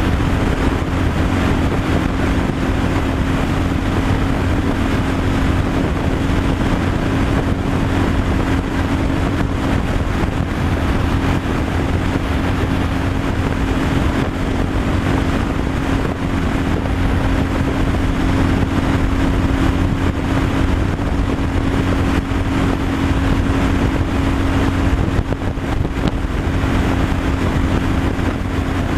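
Tractor-trailer truck driving at steady speed: a constant engine drone with a steady hum, mixed with road and wind noise.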